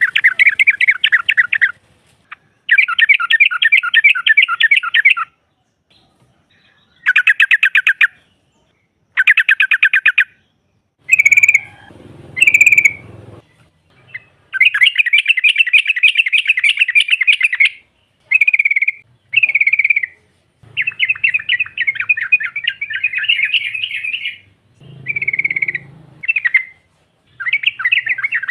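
Female yellow-vented bulbul (trucuk) calling: bursts of fast chattering notes, each a second or two long, broken by pauses and a few short single notes.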